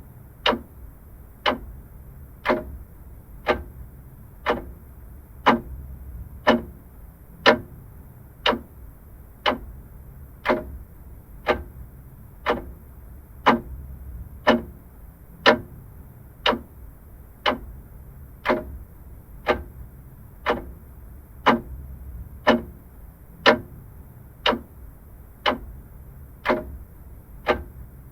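Vintage mechanical clock ticking steadily, about one tick a second, over a faint low hum.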